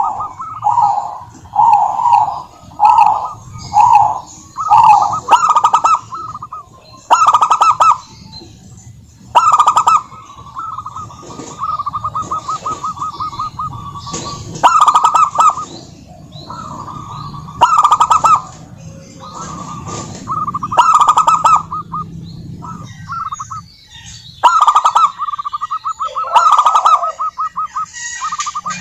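Zebra doves singing: repeated staccato cooing phrases, short and about once a second at first, then longer, fast rattling trills.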